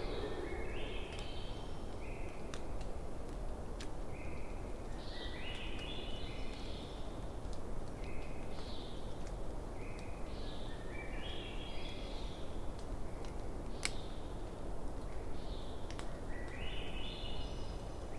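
Wood fire crackling, with a few sharp pops over a steady low rush. A bird repeats a short song phrase, a few notes stepping upward, about every five to six seconds.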